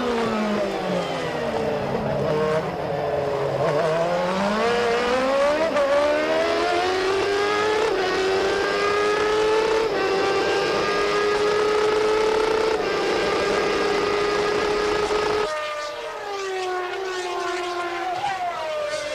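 1992 Formula One race car engine at high revs. Its pitch drops as it slows for a corner, then climbs in steps through several upshifts and holds high at full throttle. About three-quarters of the way through it cuts off suddenly to another F1 engine whose note falls.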